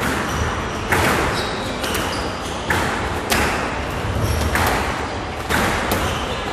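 Squash rally: the ball smacked by rackets and off the court walls in sharp, ringing hits about once a second, with short high squeaks between hits.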